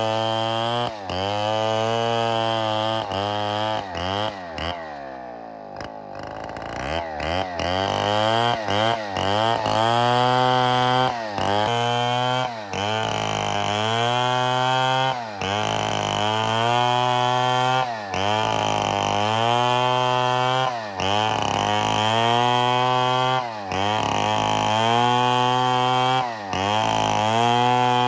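Chainsaw running at high speed through wood, its pitch dipping and recovering every second or two. About four seconds in it drops to a lower speed, then revs back up about seven seconds in.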